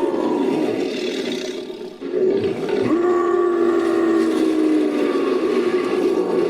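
Designed creature roar sound effect, layered from a human voice and big-cat roars: one roar trails off with falling pitch about two seconds in, then a second long roar sets in with a slowly falling pitch.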